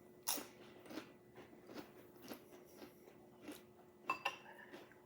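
A person chewing crunchy food close to the microphone: a string of short, crisp crunches about two a second, with a louder pair of clicks about four seconds in.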